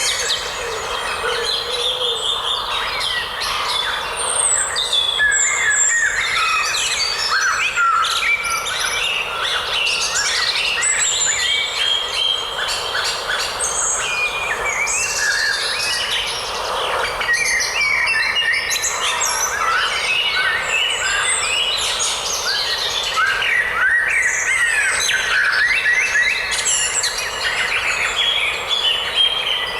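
Many songbirds singing and calling at once, a dense, continuous chorus of overlapping chirps and whistles.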